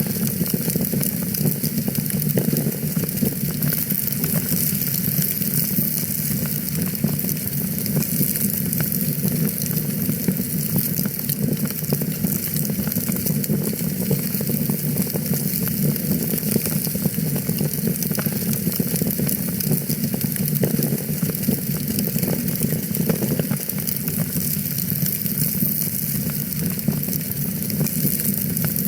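Wood fire crackling in a fireplace: a steady stream of small pops and snaps over a continuous low rumble and hiss.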